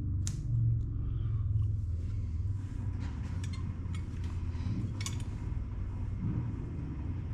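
Steady low rumble of shop background, with several light clicks and taps as small metal carburetor parts are handled on the bench, the sharpest just after the start and about five seconds in.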